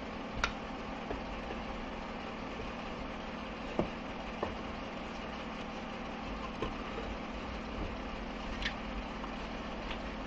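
Steady low workshop hum with a constant tone, and a few faint, light knocks of the gearbox secondary shaft and its parts being handled and positioned for clamping.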